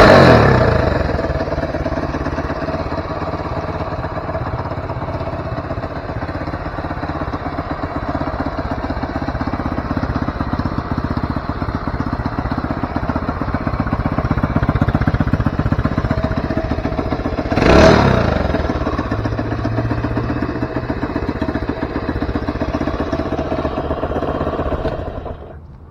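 Honda CT90 Trail's small four-stroke single-cylinder engine running steadily, with a brief rev at the start and another about eighteen seconds in. It shuts off just before the end.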